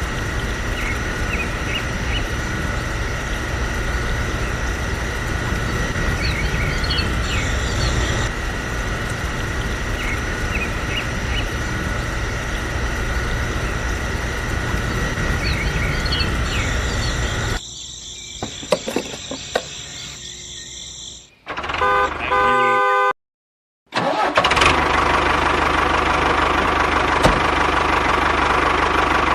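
Engine-like running noise in several cut-together stretches. A quieter patch with a few clicks falls in the middle, followed by a short horn-like blast of steady tones just past the two-thirds mark, a brief silence, and the running noise again.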